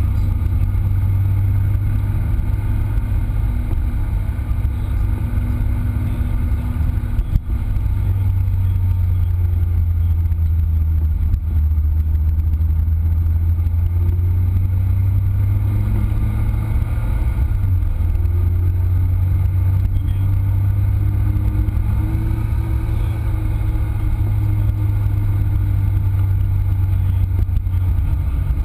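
Lotus Exige S's supercharged four-cylinder engine driven hard at speed, its revs rising and falling through the gears, over steady road and wind noise. A single sharp knock about seven seconds in.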